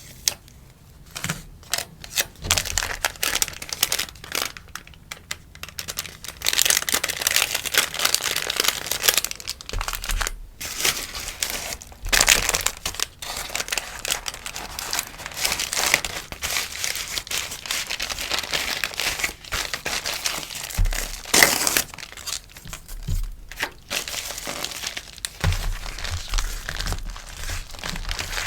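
Sticker packaging being handled close to the microphone, crinkling and rustling in an irregular run of crackles and small clicks. It is busiest through the middle, with one sharp loud crinkle about three-quarters of the way in.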